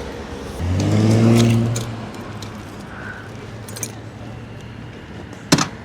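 Motorcycle engine starting about half a second in, loud for about a second, then running on at a low idle. A sharp click comes near the end.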